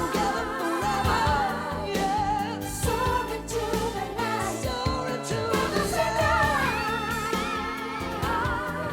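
A pop song, a wavering sung vocal line over full band backing.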